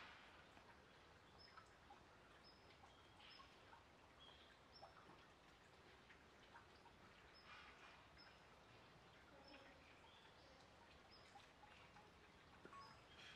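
Near silence: faint outdoor ambience with short, high bird chirps repeating every second or so.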